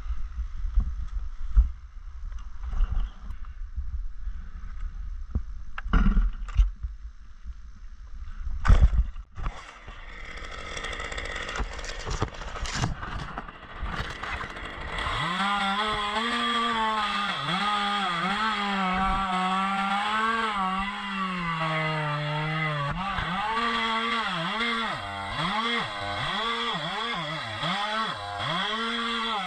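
Scattered knocks and low rumbling, then a chainsaw running from about a third of the way in. Its engine pitch dips and rises over and over through the second half.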